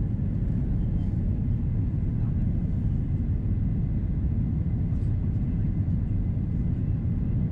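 Steady low cabin rumble of an Airbus A330-300 in flight on approach: its Rolls-Royce Trent 700 engines and the airflow over the fuselage, heard from inside the cabin, with a faint steady high tone above it.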